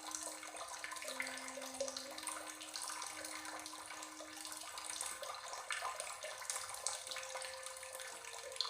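Steady running water, a continuous splashing hiss, with a few soft held low notes underneath that step to a new pitch every second or so.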